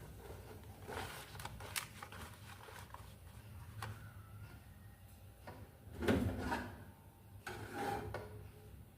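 Scattered knocks and clicks of kitchen handling, loudest about six seconds in, over a low steady hum.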